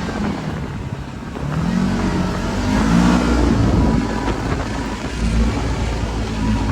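Side-by-side UTV engine revving up and down repeatedly as it drives over bumps.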